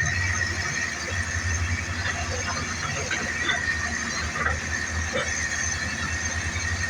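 Hydraulic excavators at work in peat: a steady low diesel engine rumble with a steady high-pitched whine over it and scattered small knocks.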